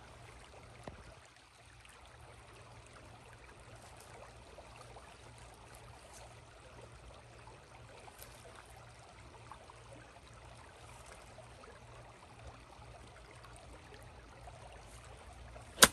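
Faint steady outdoor hiss, then near the end one sharp crack of a golf club striking a ball lying in shallow water at the water's edge.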